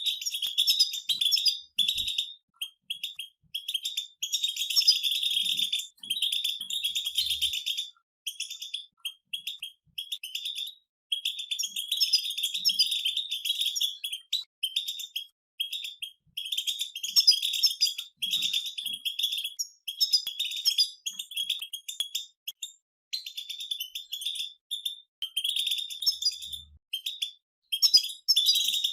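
Several European goldfinches singing together in the rapid twittering 'betbeta' style: fast, high, chattering trills in phrases a second or two long, broken by short pauses.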